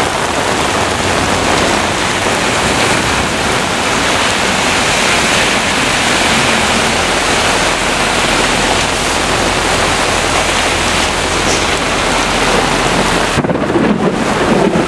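Heavy rain pouring in a thunderstorm, a dense steady hiss with a low rumble of thunder beneath it. Near the end the high hiss of the rain drops away abruptly.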